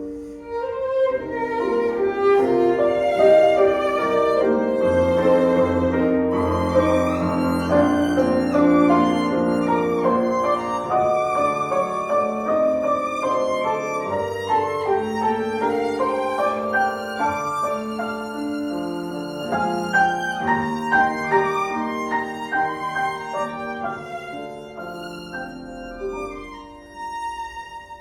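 Violin playing a slow, sustained melody with accompaniment, the music easing off near the end.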